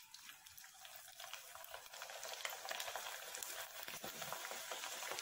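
Garlic rice-flour papadi frying in hot oil in a kadai: a crackling sizzle that builds over the first two or three seconds after it goes in, then holds steady, while a slotted spoon presses it down into the oil.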